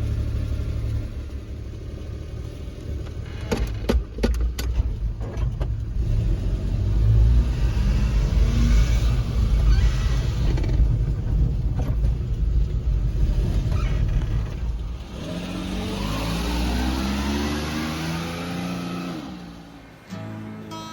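1995 Suzuki Carry mini truck's small three-cylinder engine running with a low rumble. A few sharp clicks come around four seconds in, and from about fifteen seconds in the engine note climbs in pitch several times as it accelerates.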